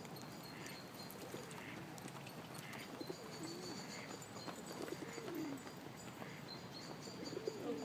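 Pigeons cooing faintly: several low, rising-and-falling coos a second or two apart.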